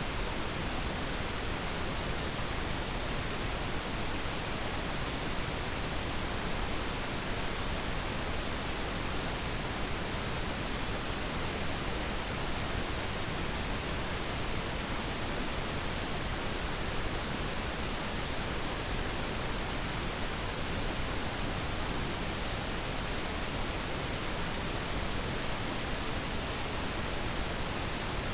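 Steady pink noise: an even, unchanging hiss across the whole range, with no timer chime or other sound.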